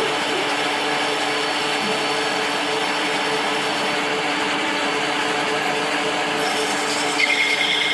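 A machine tool running steadily with a constant hum. A higher-pitched squeal joins near the end.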